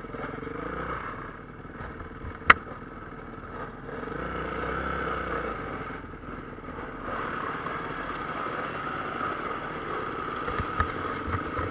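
Motocross motorcycle engines racing, their sound swelling and fading as the bikes pass, with one sharp crack about two and a half seconds in.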